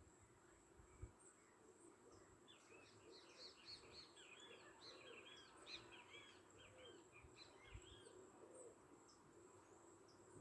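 Faint birdsong: a rapid run of chirps and warbles from about two and a half to seven seconds in, over a steady high-pitched whine.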